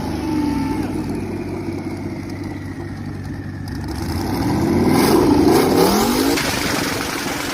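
Twin-turbo car engine under hard acceleration. Its pitch climbs steeply to the loudest point about five to six seconds in, then eases off.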